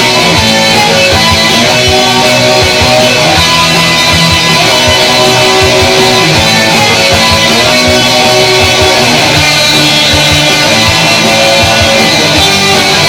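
Guitar band playing loud, steady rock music, with electric guitars over a regular drum beat.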